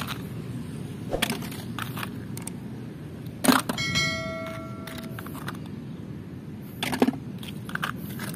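Plastic toy vehicles being handled: scattered clicks and knocks, the loudest about three and a half seconds in, followed by a brief ringing tone.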